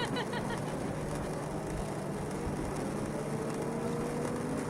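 Race motorcycle engines running at a distance: a steady engine hum with one engine note rising slightly near the end. It opens with a quick run of short high chirps.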